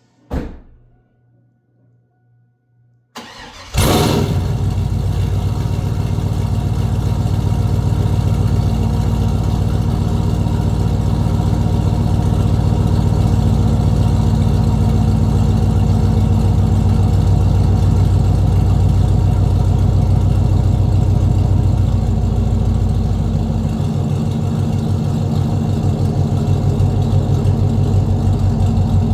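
2002 Chevrolet Camaro Z28's LS1 V8, fitted with Speed Engineering 1 7/8-inch long-tube headers, true dual exhaust and an X-pipe, started up. A click comes first, then a faint steady tone, then the starter cranks briefly and the engine fires loudly about four seconds in. It runs at a high idle that drops to a lower, deeper idle about 24 seconds in.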